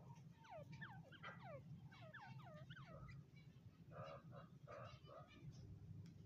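Grey francolin calling: a run of quick whistled notes, each falling in pitch. About four seconds in come a couple of rougher, lower calls. A low steady hum lies underneath.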